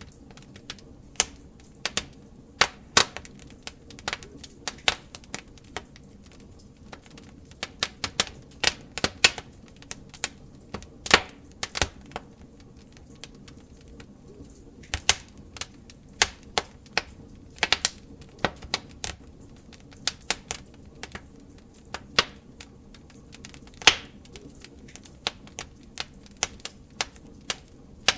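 Open wood fire crackling: irregular sharp pops and snaps, several a second and unevenly spaced, over a low steady rumble.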